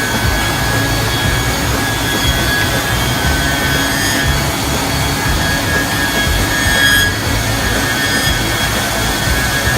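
Uinze CNC 8T linear shaping and sanding machine running as it works solid wood: a steady high spindle whine over dense cutting noise, swelling briefly about seven seconds in.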